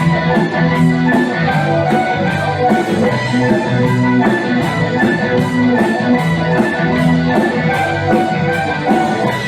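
Instrumental passage of a band's song, with no vocals: sustained instrumental notes over a steady beat of short high ticks, about three a second.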